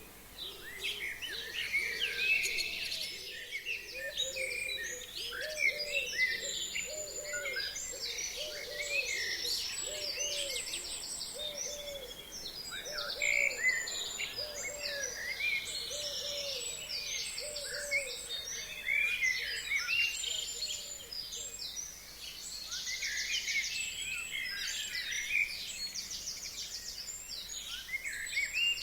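Spring chorus of forest songbirds: many overlapping high chirps, trills and whistles. From about five seconds in until about eighteen seconds, a lower hooting note repeats roughly once a second beneath them.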